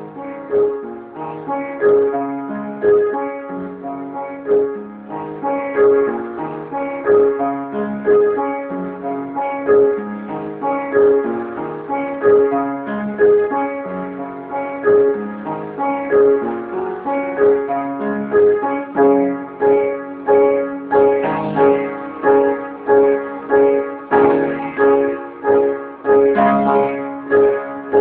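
Piano playing a slow, even pattern: a repeated note struck about once a second over changing chords lower down.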